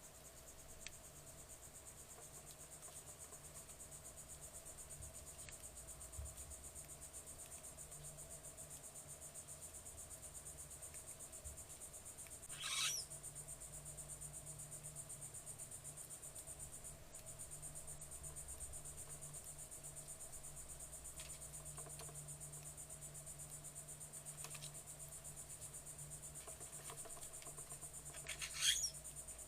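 High, steady trilling of insects such as crickets, over a low steady hum. Twice, about 16 seconds apart, a short sharp bird call falls quickly in pitch and stands out as the loudest sound.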